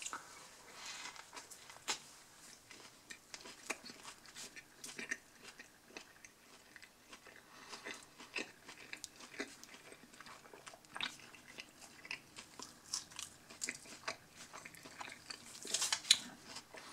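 A person chewing a mouthful of submarine sandwich: soft, irregular mouth clicks and crunches. A short, louder rustle of paper comes near the end as a till receipt is picked up.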